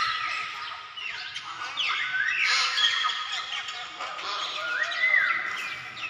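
Several birds calling and singing at once: overlapping whistled notes that glide up and down, with one rising-then-falling whistle phrase repeating.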